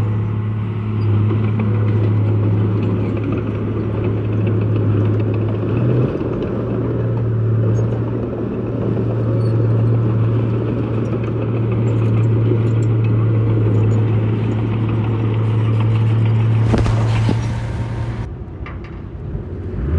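Heavy construction machine's diesel engine running at a steady low note, with a brief rush of noise and a drop in level near the end.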